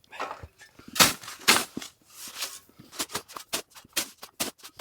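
A snow shovel scooping and scraping through dry, fluffy powder snow in a few uneven strokes. About three seconds in, quick crunching footsteps in cold snow begin, about four a second.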